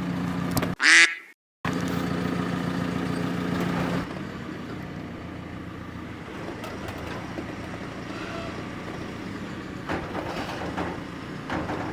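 An engine idles steadily, with a short loud burst about a second in and a brief dropout just after it. After about four seconds the engine drops away, leaving a quieter background with a few faint knocks.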